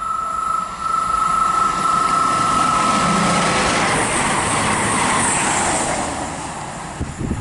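A CrossCountry Class 220 Voyager diesel multiple unit passing through the station at speed without stopping: a loud rush of wheels and train noise that swells through the middle and fades near the end, with a steady high whine over the first half.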